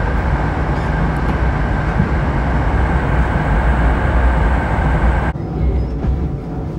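Passenger train heard from inside while running at about 110 km/h: a steady loud rumble and rolling noise. About five seconds in it cuts abruptly to a quieter low rumble as the train runs at walking pace.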